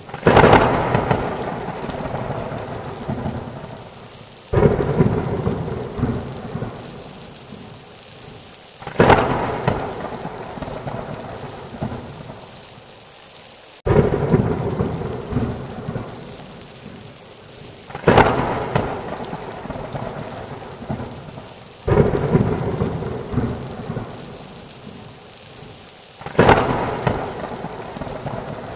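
Thunderstorm with steady rain and repeated thunderclaps. Each crack comes on suddenly and fades into a rolling rumble over a few seconds, about every four to five seconds, seven times.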